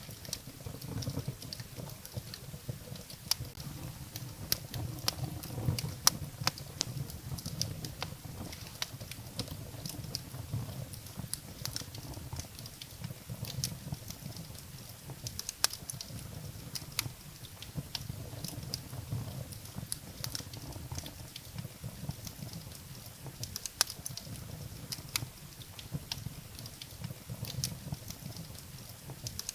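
Wood fire burning in a fireplace: irregular sharp crackles and pops from the burning firewood over a steady low rumble of the flames.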